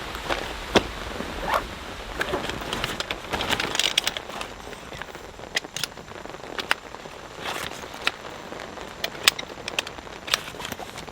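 Scattered raindrops landing on surfaces as sharp, irregular ticks and crackles. They come thickest a few seconds in and thin out after that.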